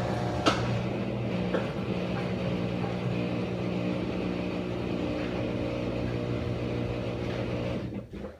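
Maytag Bravos MVWX655DW1 top-load washer making a loud, steady humming drone at the end of its cycle, with a single click about half a second in; the drone cuts off near the end. The noise is abnormal for the machine.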